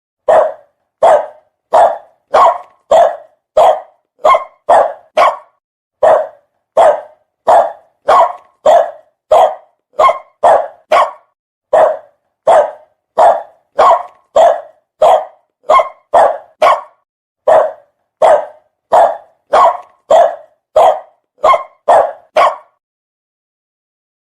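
A dog barking over and over at a steady pace, about three short barks every two seconds, each as loud as the last, with dead silence between them; the barking stops shortly before the end.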